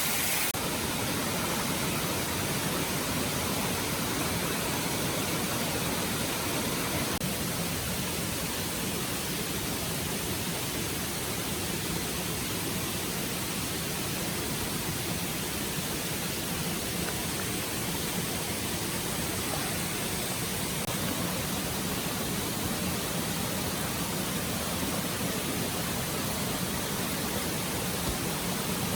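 Forest stream water rushing steadily.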